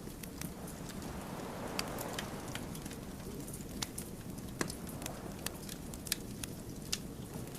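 Firewood burning in a campfire, crackling with frequent irregular sharp pops over a steady low rush of flame.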